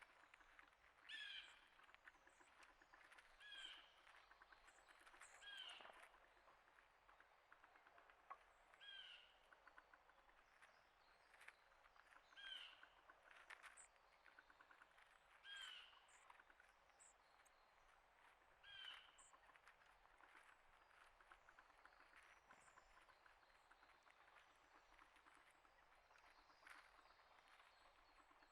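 A bird calling faintly, short pitched calls repeated about seven times, every two to three seconds, with softer high chips between them.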